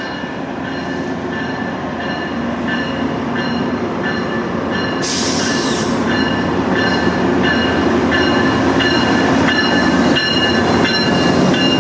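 GO Transit MP54AC diesel locomotive running as it draws a 12-car train into a station, growing slowly louder, with a ringing tone repeating about every 0.7 s, typical of the locomotive's bell. A short burst of air hiss comes about five seconds in.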